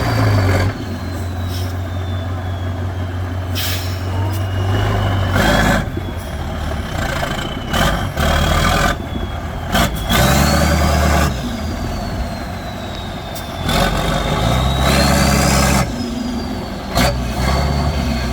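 Trial truck's diesel engine working under load, with a high whine that rises and falls as the revs change and several loud surges of noise, each about a second or two long.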